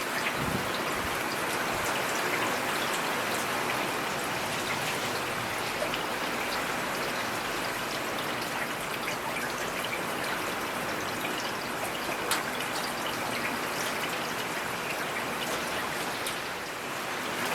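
Steady rain falling, with many small drop hits heard through an even wash of noise.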